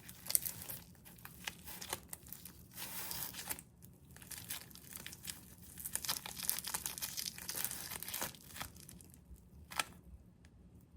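Packaging crinkling and tearing as it is handled, in irregular rustles with a sharp crackle just before it stops about ten seconds in.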